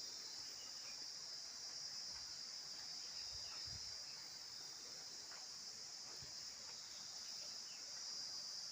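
Steady, high-pitched chorus of insects, with a few faint short chirps over it.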